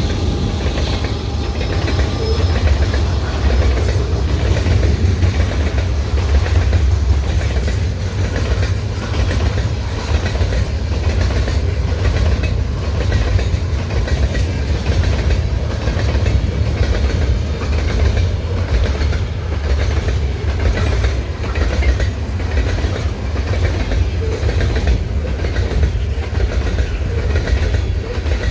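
Freight train cars rolling past, wheels clicking over the rail joints over a steady low rumble.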